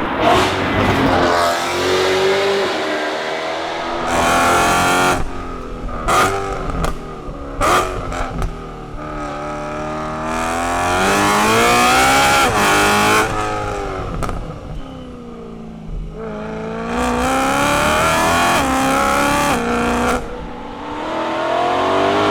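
Straight-piped BMW E92 M3's 4.0-litre S65 V8 exhaust, revving up and dropping back several times as the car accelerates and shifts, with short sharp cracks in between.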